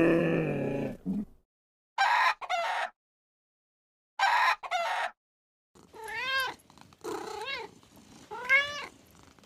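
A cow's moo trails off at the start, then a small animal gives a series of short high calls. The first calls come in two quick pairs; the last three are longer, each rising and falling in pitch.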